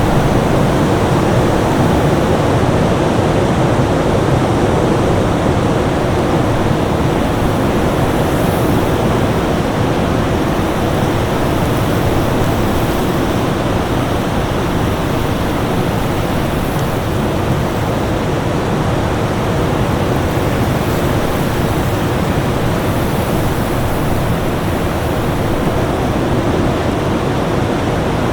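Winter storm ambience: a steady, dense rush of noise, deep and full, with no separate gusts, drops or other events.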